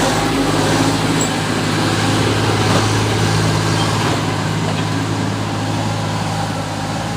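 Ural 6x6 military truck's engine running steadily under way, a continuous low drone with a slight change in pitch about three seconds in.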